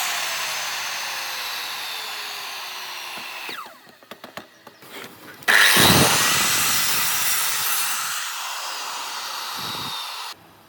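A woodworking power tool working wood. Its noise fades with a falling whine over the first few seconds, then come a few light knocks and clicks. It starts again suddenly and loudly about halfway through and runs until it cuts off abruptly just before the end.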